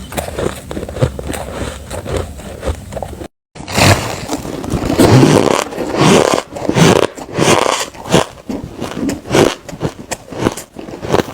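Close-miked biting and chewing of refrozen, sandy-textured ice: rapid crackly crunches. The sound cuts out for a moment about three seconds in, then comes back with louder, fuller bites.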